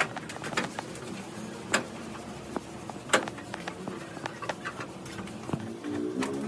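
Scattered light taps and clicks, with sharper knocks at about one and three seconds in, over a faint steady background.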